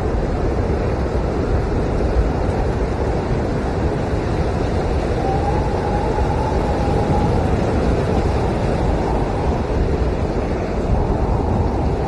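Blizzard wind blowing hard and steadily, with a faint whistle that wavers up and down in pitch around the middle.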